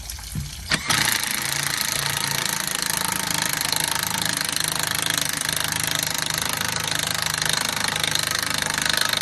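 Impact wrench hammering continuously as it undoes a drain bung, starting about a second in.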